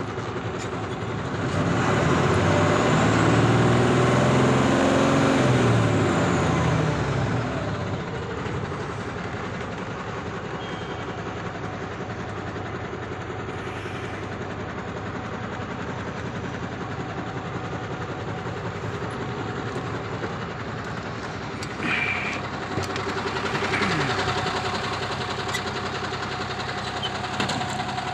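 Truck diesel engine idling steadily. A louder engine sound swells and fades about two to seven seconds in, its pitch shifting.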